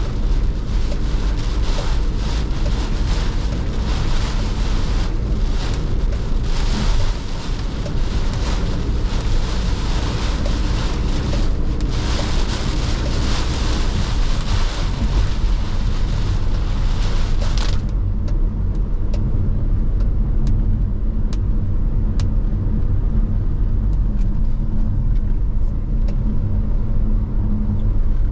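Car driving through heavy monsoon rain: a dense hiss of rain and tyre spray over the steady rumble of the engine and road. About two-thirds of the way in, the hiss stops suddenly, leaving the low road rumble with a few faint ticks.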